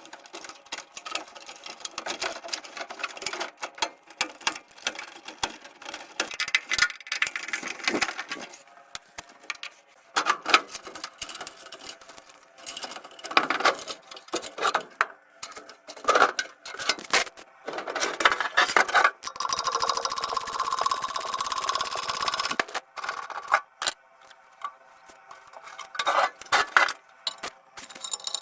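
Tool noises from swapping a furnace's ECM blower motor: short whirring runs of a power driver among metal clicks and clinks, with a longer steady whir for about three seconds some twenty seconds in.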